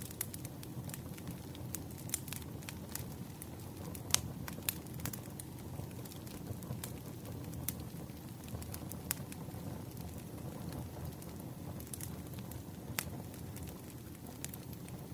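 Wood fire crackling: a steady low rush with scattered sharp pops and snaps, the loudest pop about four seconds in.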